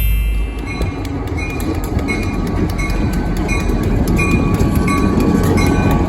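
Canadian National freight train, led by an EMD SD60 diesel locomotive, rolling past with a steady rumble and wheel clicks, and a short high ring repeating about every three-quarters of a second.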